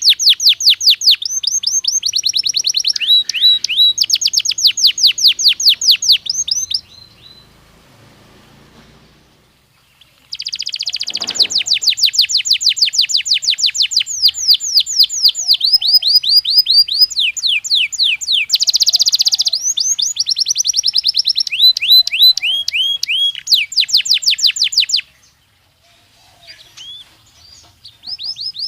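Belgian canary singing in long, rapid trills of quickly repeated falling notes. The song breaks off for a few seconds about a quarter of the way in, resumes in a long bout, and pauses again near the end.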